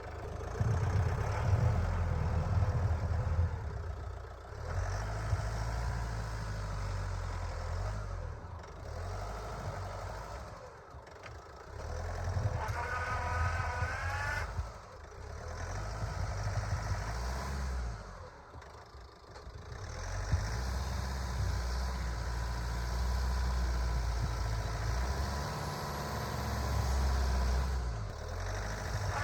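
Van engine running, revving up in surges that ease off every few seconds, with a brief rising whine about halfway through.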